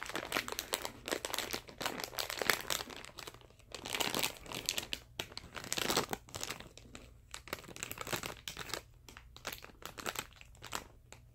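A crinkly plastic snack bag of cookies being handled and crumpled, in irregular bursts of crackling that come and go.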